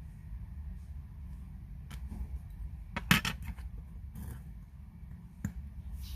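A few small sharp clicks and taps of metal watchmaker's tools on watch parts, loudest in a quick cluster about three seconds in, over a steady low hum.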